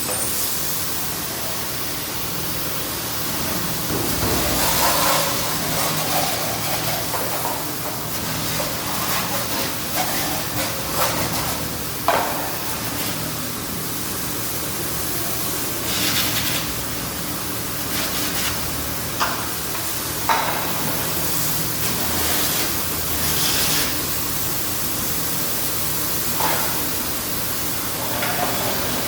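Steady hiss of water spraying onto an engine during an engine wash, with a few sharp knocks and short surges of louder spray.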